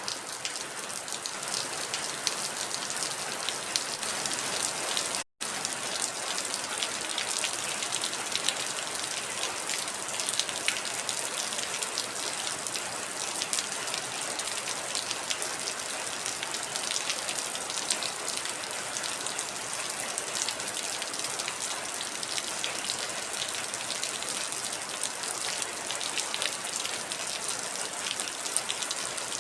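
Heavy rain falling steadily, a dense hiss of many small drop impacts. The sound cuts out completely for an instant about five seconds in.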